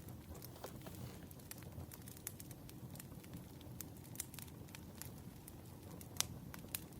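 Wood fire crackling: a steady run of small, irregular pops and snaps over a low rumble, with one sharper pop about six seconds in.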